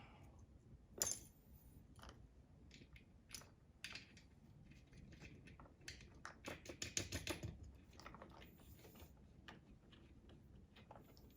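Faint, scattered clicks and light clinks of small metal parts as washers and nuts are fitted by hand onto a water heater's bolts, left loose. There is one sharper click about a second in and a quick run of clicks in the middle.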